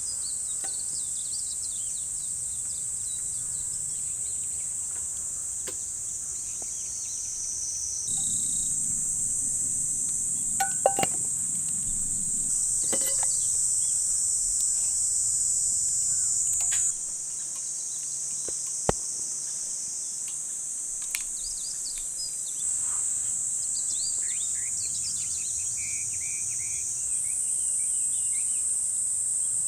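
Steady high-pitched chorus of insects, with scattered bird chirps and a few sharp clicks and knocks; the chorus changes in level and pitch abruptly every few seconds.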